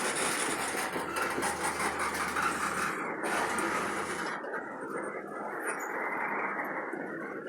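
Freight train switching: a diesel locomotive running as it moves tank cars. A loud hiss covers the first four seconds or so, then only the duller running sound remains.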